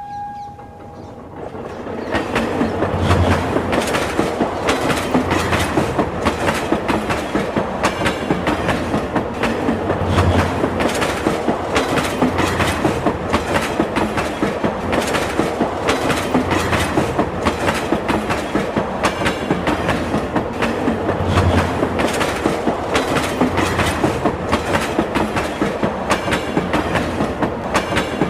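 Train running on rails, its wheels clattering over the rail joints in a steady, rapid clickety-clack that builds up over the first two seconds.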